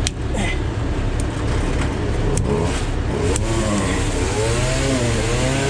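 Heavy vehicle engine running, revving up and down from about three seconds in, with a few sharp clicks.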